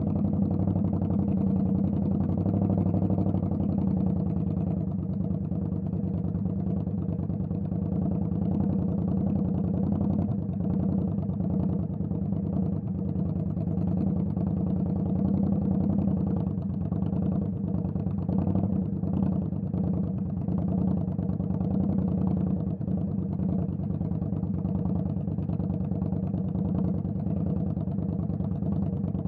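Indian Scout Bobber's V-twin engine running at a steady engine speed, its pitch holding level with no clear revs.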